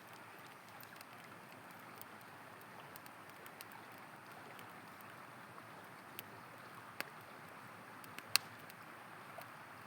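A river flowing with a steady rush, with a few sharp pops and crackles of burning campfire wood in the second half, the loudest near the end.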